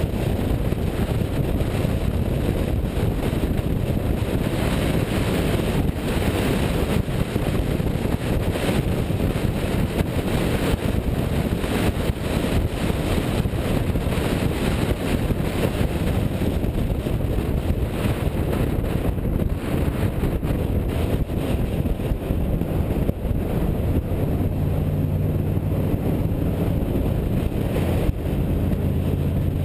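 Car on the move: engine running under heavy wind rush on the microphone, with the engine's low hum coming through more clearly in the last few seconds.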